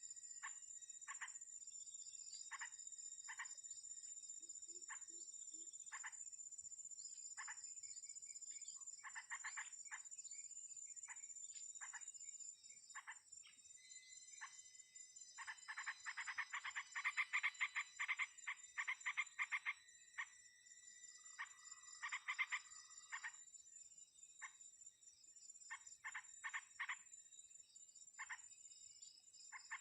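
Animal calls: short calls repeated in runs, coming fast and densely for a few seconds past the middle. They sound over a steady high-pitched insect drone.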